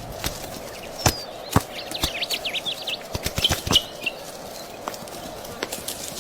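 Oogpister beetle scuffling among ants, heard as scattered sharp ticks and scrapes, with birds chirping in the background; a quick run of short rising chirps comes about two seconds in. A steady faint hum lies under it all.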